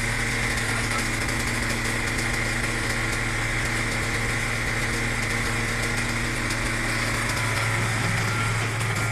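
Engine of a hydraulic log-splitting machine running steadily at idle: a constant low hum with a high whine over it.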